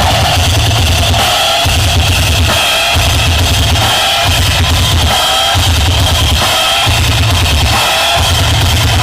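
Loud music played through a miniature sound system, with heavy bass pulses a little over a second apart under drums and upper melody.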